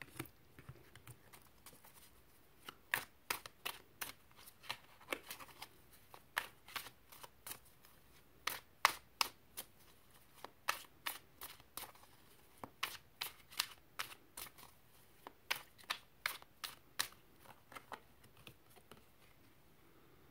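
A deck of tarot cards being shuffled by hand: a long, irregular run of short, sharp card clicks and slaps, a few each second, tailing off near the end.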